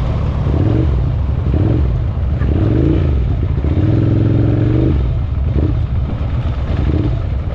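Motorcycle engines running loudly, their pitch rising and falling several times, then holding steady for about a second near the middle.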